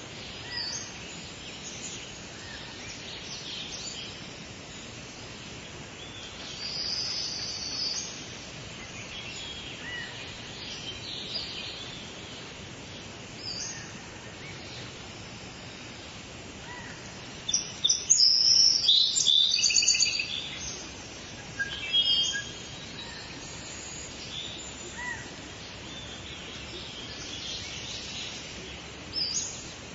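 Several songbirds singing and chirping over a steady outdoor hiss, with short high calls scattered throughout and a burst of loud rapid chirps and trills in the middle.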